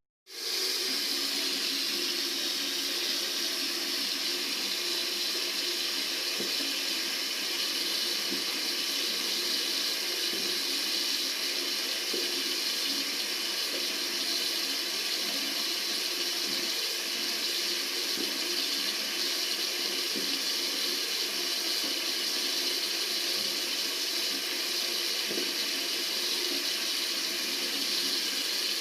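Tap water running steadily from a faucet into a sink, an even rushing hiss, with a split-second gap right at the start.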